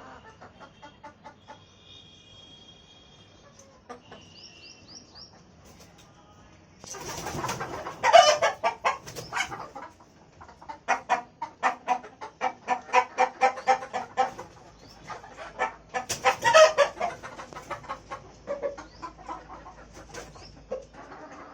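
Sonali hens clucking: faint chirps and soft clucks at first, then from about seven seconds in a loud run of rapid, repeated clucks lasting about ten seconds before it tapers off.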